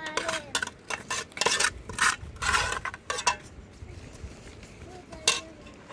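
Dishes and utensils clattering and knocking together, several sharp strikes with short metallic ringing, a loud clink about five seconds in.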